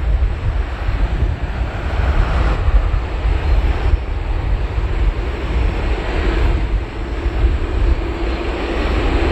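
Jet noise from a Boeing 777-300ER's GE90-115B turbofans: a continuous deep rumble with a rushing hiss that swells and fades in slow waves, and a faint steady hum showing near the end.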